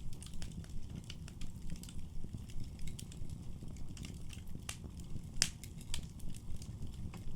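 Wood fire burning in a fireplace: a steady low rumble of flames with irregular sharp crackles and pops, the loudest pop about halfway through.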